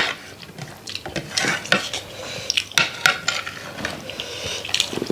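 Scattered clinks and scrapes of a utensil against a dish as food is mixed and eaten.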